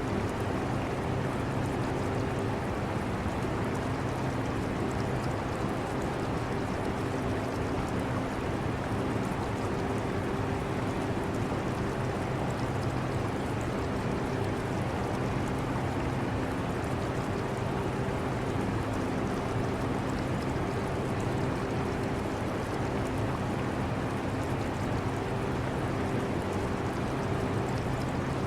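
Air conditioner running steadily, a constant whooshing airflow with a low hum that wavers slightly, mixed with aquarium water trickling.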